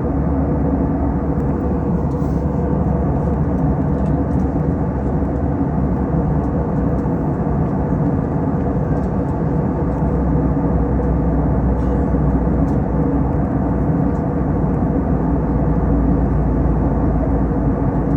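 Airbus A321 airliner cabin noise in descent: a steady low drone of engines and airflow with a faint hum, unchanging throughout.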